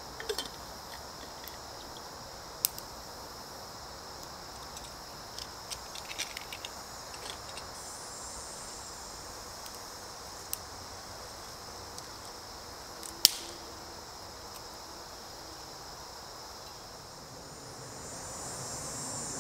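Insects chirring steadily in a high, even band, with a few sharp clicks and knocks scattered through, the loudest about thirteen seconds in.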